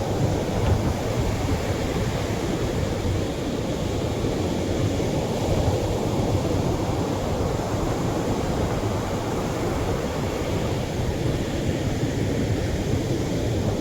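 Atlantic surf breaking on a beach: a steady rushing rumble of waves with no separate crashes standing out.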